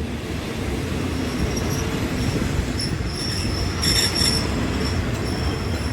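Train running on rails with a steady low rumble. Its wheels squeal in thin high tones that start about halfway through and are loudest about two-thirds of the way in.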